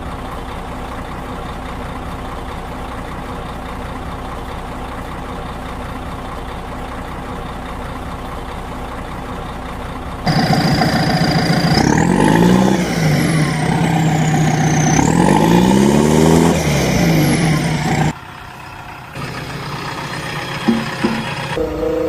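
A vehicle engine sound, steady for about ten seconds. It then gets louder, with its pitch rising and falling repeatedly for about eight seconds, before dropping back to a quieter steady hum.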